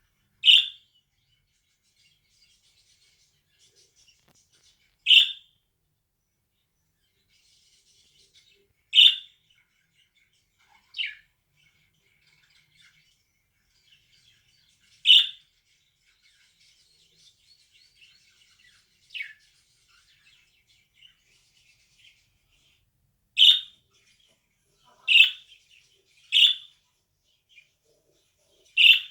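Pet budgerigar giving short, loud calls every few seconds, about ten in all and coming closer together near the end, with faint soft chatter in between.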